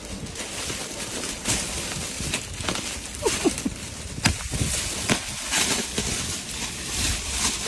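Plastic protective wrap on a new car being peeled off and crinkled: a steady crackling rustle with many sharp ticks, and a few short falling squeaks about three and a half seconds in.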